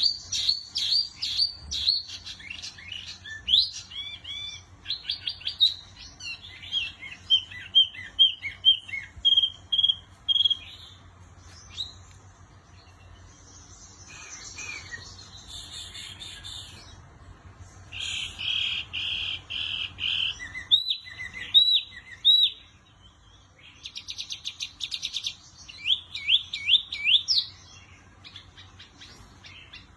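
A small songbird, the cage bird known in Indonesia as wambi mini, singing continuously: a varied string of rapid trills, quick repeated chirps and upward-sweeping whistles, with a few short pauses.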